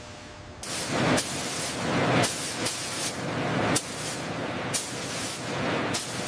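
Loud rushing hiss, like a jet of air or spray, starting about half a second in and going on in uneven surges about once a second.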